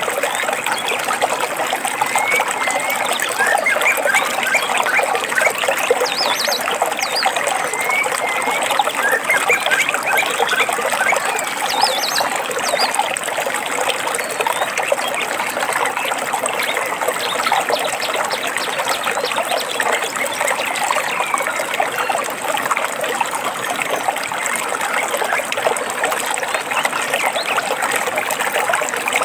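Small stream trickling and babbling steadily, with birds chirping over it in short, high calls, mostly in the first half.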